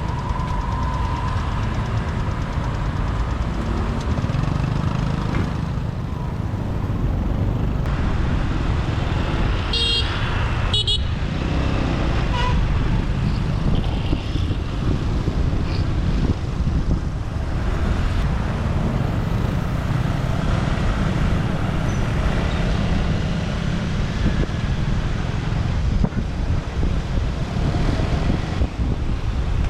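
Motorbike riding through city traffic: steady engine and road noise throughout. A horn beeps twice about ten seconds in.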